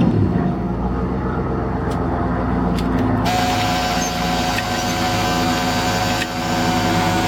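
A motor running steadily. About three seconds in, a higher steady whine and hiss join it.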